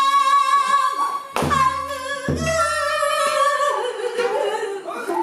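Pansori singing on long held notes that step downward toward the end, with traditional Korean accompaniment and two deep strokes of the buk barrel drum about one and a half and two and a half seconds in.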